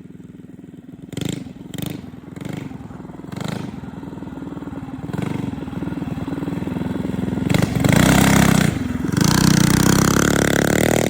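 Mini bike engine revving in several short bursts, then running louder and climbing in pitch as the bike accelerates in the last few seconds.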